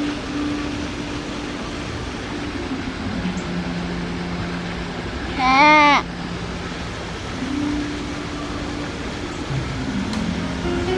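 Steady background noise with a few low held tones. About halfway through, a short, loud, high-pitched voice calls "ah" with a wavering pitch.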